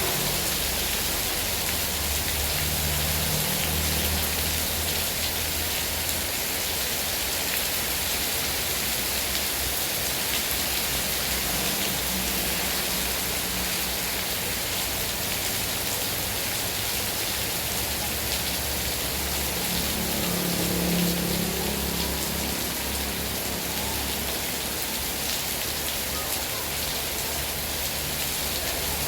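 Heavy rain falling in a steady hiss, with a low rumble that swells briefly twice, a few seconds in and again about two-thirds of the way through.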